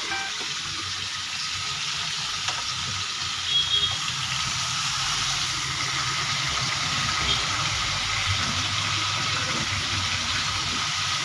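Chicken pieces frying in hot oil in a metal pan, a steady sizzle.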